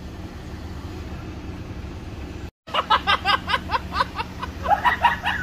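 Car engine idling with a steady low hum. After a cut about halfway in, the hum carries on under a quick run of short, high yelps.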